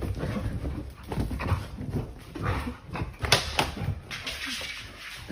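A dog making short, irregular vocal sounds.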